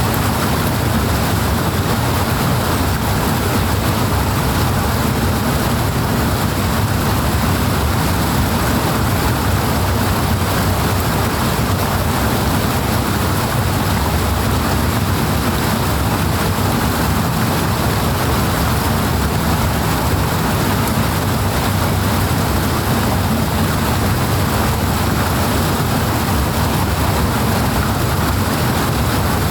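Strongly flowing water rushing without a break, a loud, steady, deep rush.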